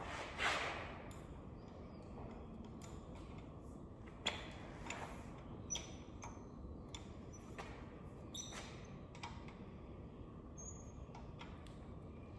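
Scattered light metallic clinks and taps of hand tools and sockets on the engine's head bolts, a few with a short high ring, after a louder knock about half a second in.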